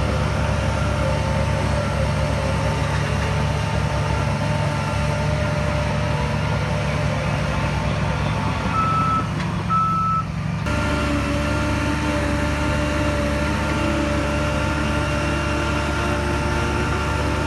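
Heavy diesel earth-moving machinery running steadily while a reversing alarm beeps. About ten and a half seconds in, the engine note changes abruptly.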